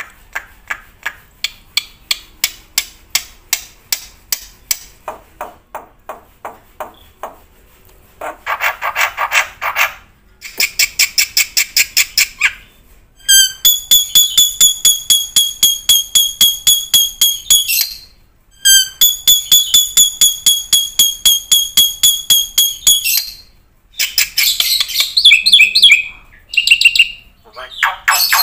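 A bird calling: runs of quick repeated notes, then two long, buzzy, evenly pulsed trills of about five and four seconds, with choppier calls near the end.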